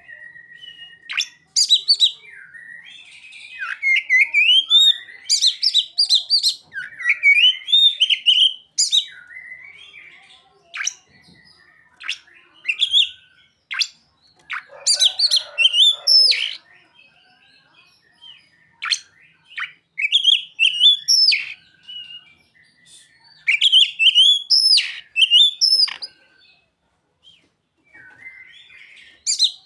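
Oriental magpie-robin (kacer) singing a varied song of quick chirps and rising whistles in bursts of a few seconds with short pauses; its song is filled with learned imitations of ciblek (bar-winged prinia) and sogon calls.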